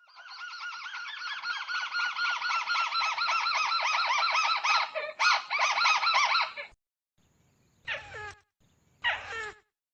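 Crake calling: a fast chattering series of repeated rising-and-falling notes for about six and a half seconds, with a short break near five seconds, followed by two short downward-sweeping calls.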